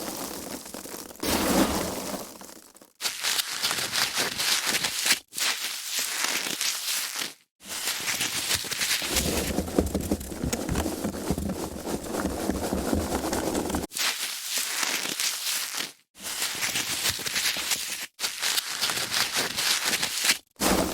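Foam packaging being handled: continuous squeaky, crinkly rubbing and crackling of the foam, in stretches of a few seconds broken by brief abrupt silences.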